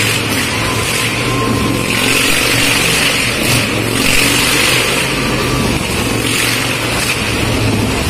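Motorcycle engines running steadily and loudly, with no pause or cut-off.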